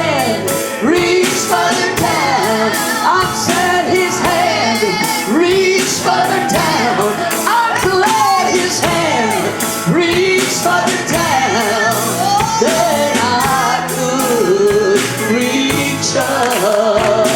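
Church worship band and singers performing a gospel song with a steady drum beat.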